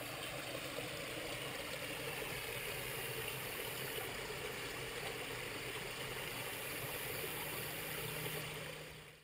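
Steady rushing noise with a faint low hum under it, fading in at the start and out near the end.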